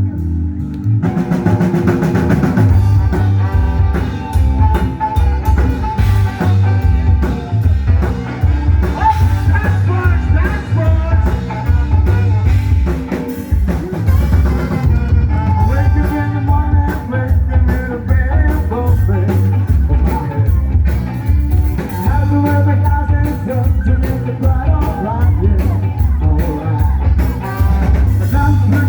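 A band playing rock music, with a driving drum and bass beat and singing; the full band comes in about a second in.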